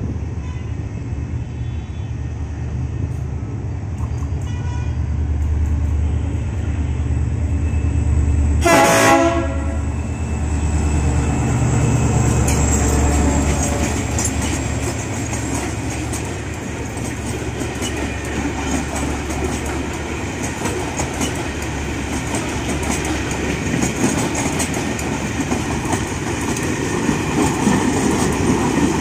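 A diesel locomotive heading a parcel express approaches with its engine droning low and steady. A train horn sounds once, for about a second, roughly a third of the way in. The locomotive then passes close by, followed by covered goods wagons clattering over the rail joints.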